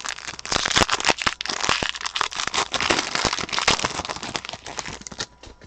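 Foil trading-card pack wrapper crinkling and crackling as it is handled and torn open, stopping about five seconds in.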